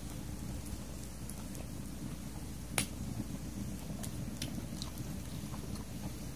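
Wood fire crackling: scattered small pops over a low steady rumble, with one sharper, louder pop about three seconds in.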